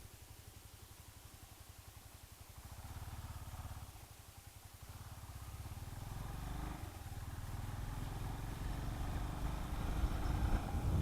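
Honda CB400SS single-cylinder engine running at low speed, then pulling harder and getting steadily louder through the second half as the motorcycle accelerates, with wind noise building toward the end.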